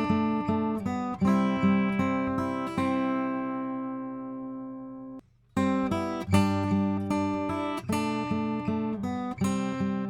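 Acoustic guitar strumming chords through a Warm Audio WA-2A optical compressor set to limit. One chord rings out and fades for a couple of seconds, then the sound cuts off abruptly for a moment about five seconds in and the strumming starts again.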